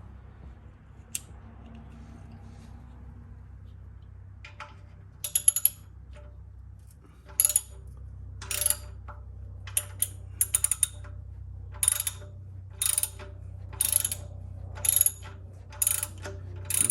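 Socket ratchet clicking in short runs, about one run a second, as it is swung back and forth tightening a fastener until it is seated and snug.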